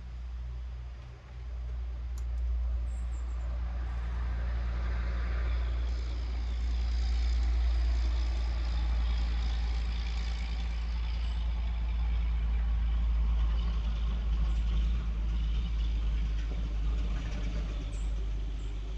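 Motor vehicle engine running with a low rumble and steady hum, swelling over the first several seconds and easing off near the end.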